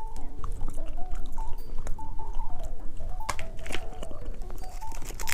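Soft background music carrying a simple tune, with a few sharp clicks and crinkles from handling candy packaging.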